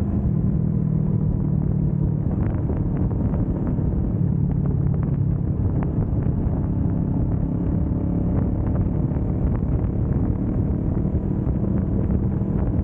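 Kawasaki Vulcan S 650's parallel-twin engine running at steady highway cruising speed, its note rising and falling slightly, with road and wind noise.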